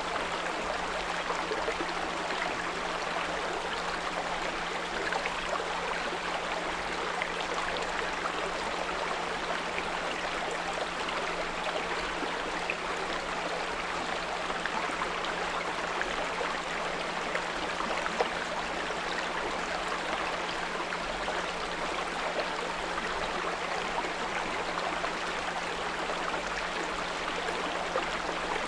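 Small brook flowing steadily, with a steady low 174 Hz pure tone underneath the water.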